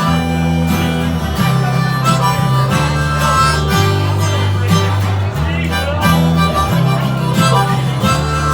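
Live band's instrumental break: harmonica playing a solo over strummed guitar and bass, with the bass notes changing every second or two.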